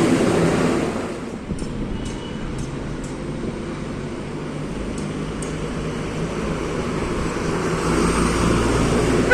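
Tata 1313 truck's diesel engine running with road traffic noise. The sound is louder in the first second, and a deeper engine rumble builds near the end.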